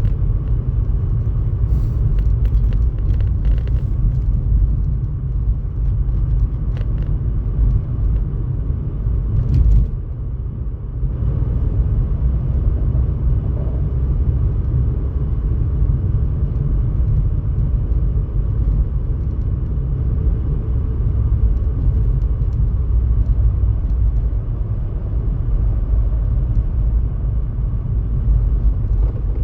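Steady low rumble throughout, with a few faint clicks in the first ten seconds and a brief drop in level about ten seconds in.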